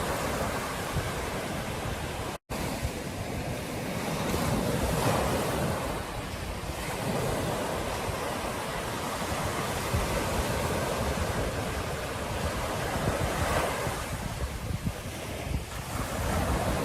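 Ocean surf washing onto a beach in a steady rush, swelling as waves break, with wind buffeting the microphone. The sound drops out completely for an instant about two seconds in.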